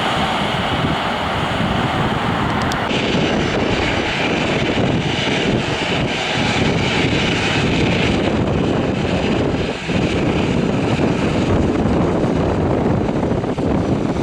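Airliner engines running loud and steady, a rush of noise with a high whine, with wind on the microphone. The sound changes abruptly about three seconds in.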